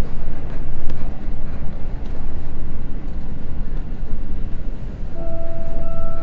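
Running noise inside a Seibu Red Arrow limited express train: a steady low rumble with an occasional click from the wheels. About five seconds in, a chime of a few clear ringing tones starts over it, the melody that comes before the onboard announcement.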